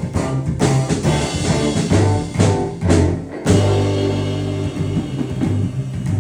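Band music: guitar over drums and a heavy bass line, with a rhythmic run of hits and then a long held chord about halfway through.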